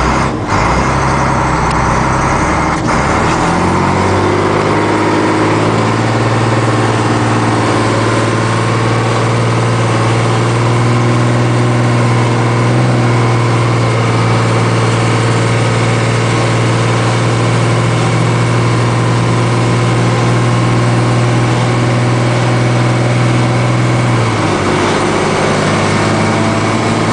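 Ford F800 truck's six-cylinder diesel engine pulling under load while driving. It climbs in pitch over the first few seconds and holds a steady drone. Its pitch drops about 24 seconds in at a gear change, then climbs again.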